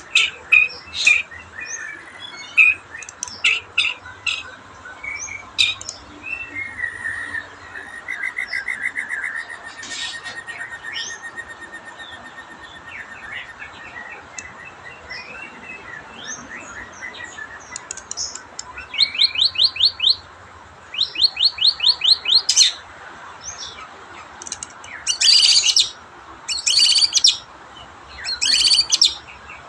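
White-rumped shama (murai batu) singing: a varied string of whistles and chirps, with rapid trills about two-thirds of the way through and loud bursts of song near the end. The bird is coming back into song as its condition slowly improves after a spell of trouble.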